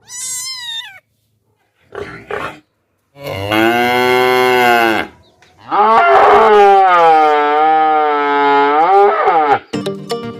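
A cow mooing: two long, loud moos, the second wavering up and down in pitch, after a short high call that falls in pitch and two brief sounds. Plucked music starts near the end.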